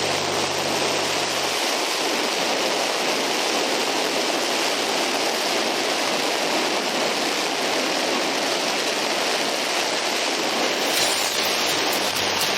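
Steady rushing wind noise, like airflow over the microphone of a small camera on a flying RC airplane, with no clear motor tone.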